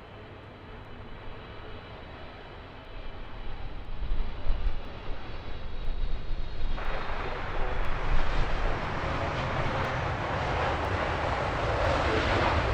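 Jet airliner engines, a steady roar growing louder, with a sudden jump in level about seven seconds in.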